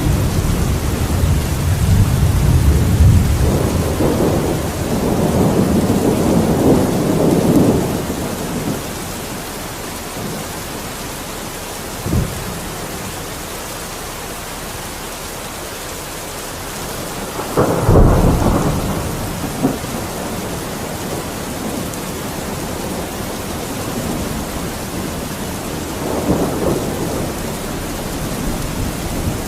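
Steady rain with thunder. A long low rumble of thunder rolls through the first several seconds, a short sharp crack comes about twelve seconds in, a louder clap and rumble follows about eighteen seconds in, and a softer roll comes near the end.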